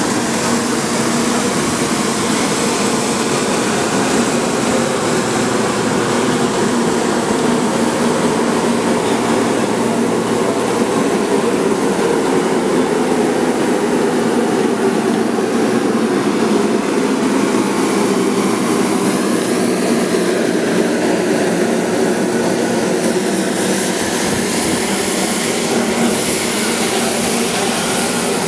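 Steady mechanical hum from a 100 series Shinkansen train close by, with several steady tones over an even hiss.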